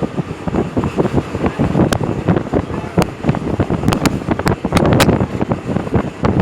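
Loud rumbling vehicle noise with heavy wind buffeting on the microphone and many sharp, irregular clicks.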